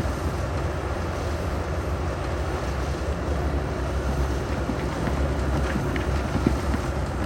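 Heavy construction machinery's diesel engine running steadily with a deep rumble, with a few faint knocks.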